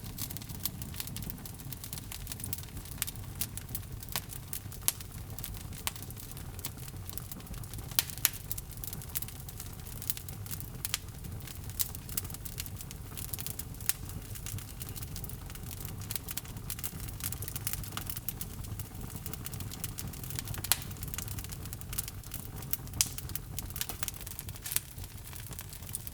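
Log fire burning in a fireplace: irregular sharp crackles and pops over a steady low rumble of flame.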